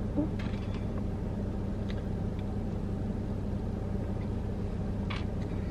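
Steady low hum of a parked car idling, heard from inside the cabin, with a few faint clicks from a spoon at a paper cup.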